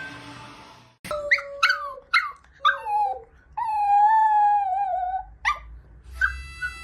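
Dog giving a run of short rising and falling yips and whines, then one long wavering howl in the middle and a short yelp after it. Near the end a harmonica starts playing steady chords.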